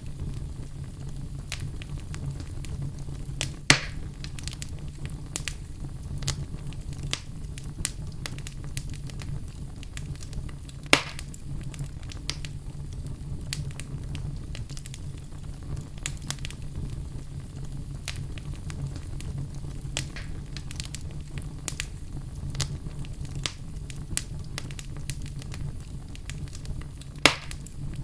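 Wood fire burning in a fireplace: a steady low rumble of flames with frequent small crackles, and three louder pops, about 4 seconds in, about 11 seconds in and near the end.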